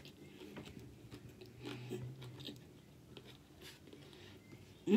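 Close-miked chewing of a bite of sandwich with Doritos tortilla chips inside it: faint, scattered crunches and wet mouth sounds.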